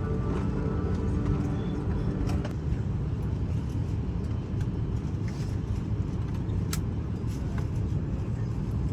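Steady low rumble of cabin noise inside an Airbus A321neo airliner, from its air conditioning and engines, with a few light clicks. A faint steady tone stops about two and a half seconds in.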